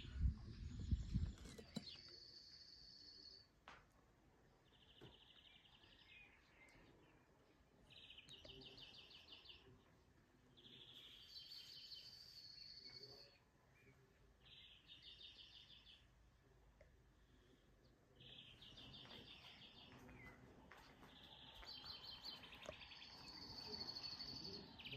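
Songbirds singing faintly, short phrases every couple of seconds: quick trills of repeated notes alternating with higher, held notes. A few low thumps in the first second or so.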